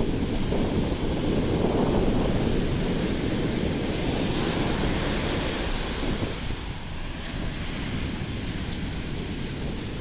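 Sea waves washing onto a beach, with wind buffeting the microphone. The surf swells through the first half and eases off about two-thirds of the way through.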